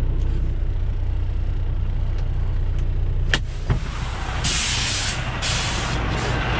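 Semi truck's diesel engine idling. A little over three seconds in there is a sharp click, then two bursts of compressed-air hiss, each about a second long: the truck's air brakes being set after parking.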